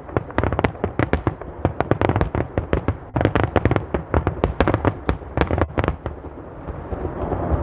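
Aerial fireworks going off in a dense barrage of rapid cracks and bangs, several a second, dying away about six seconds in.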